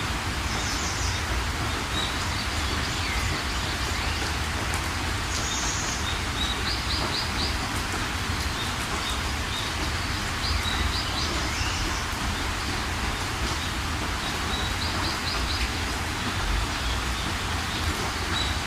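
Steady rain falling, with a bird singing over it: short high chirps and quick trills of four or five notes, repeated every few seconds.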